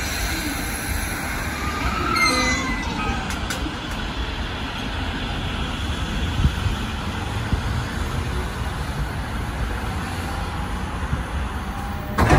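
JR Musashino Line electric commuter train at the platform: steady rumble and running noise, with a falling whine about two seconds in. A brief loud noise near the end.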